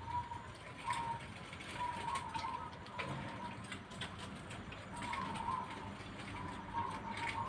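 Zebra dove (perkutut) cooing, a string of short soft notes at one steady pitch, with faint clicks scattered between them.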